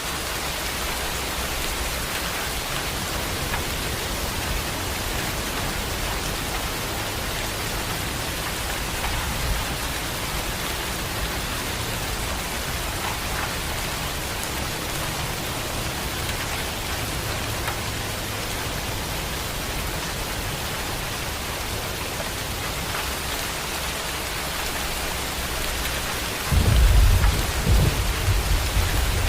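Heavy rain falling steadily, with a low distant rumble of thunder underneath; near the end a much louder, deep thunder rumble breaks in and keeps rolling.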